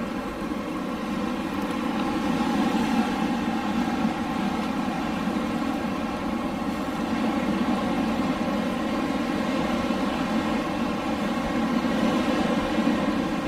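Steady rushing air noise with a faint even hum running through it, swelling a little in the first few seconds and then holding.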